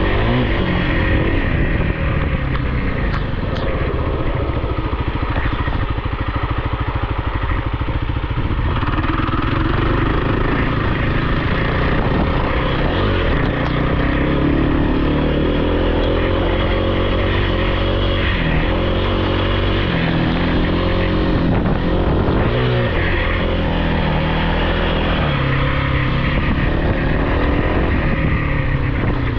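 Small off-road engine running loud under throttle, its pitch rising and falling again and again as it revs and eases off.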